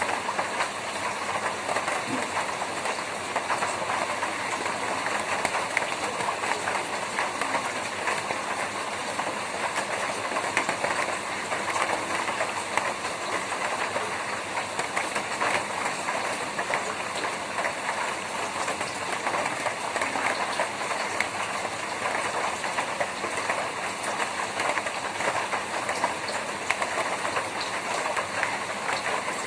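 Steady rain on a tin roof: a dense, even patter of countless drops striking the metal, with no let-up.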